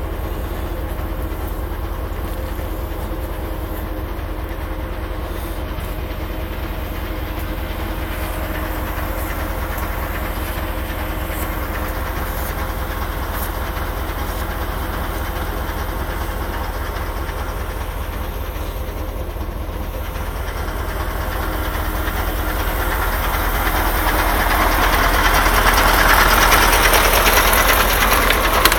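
Steady low rumble of a moving vehicle, growing louder over the last several seconds.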